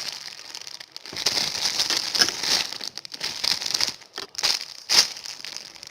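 Plastic crinkling in irregular bursts as a squishy toy in its plastic wrapping is handled and squeezed.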